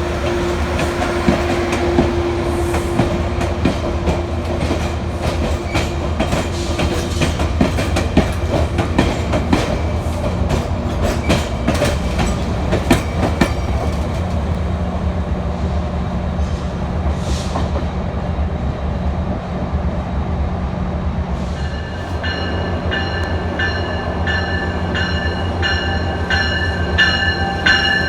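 Passenger train at a station: a steady low engine rumble with wheels clicking and clacking over the rails. About three-quarters of the way through, a locomotive bell starts ringing, about two strokes a second.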